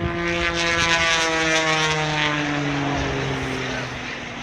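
Propeller airplane flying past, its engine's pitch falling steadily as it goes by, loudest about a second in.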